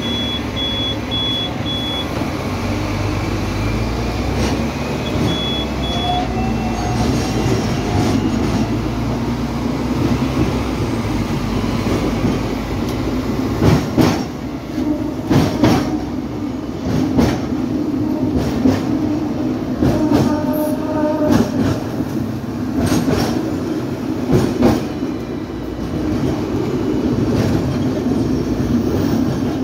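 Hong Kong double-decker electric tram running on its tracks: a steady rumble, with sharp clacks of the wheels over rail joints and points in the second half.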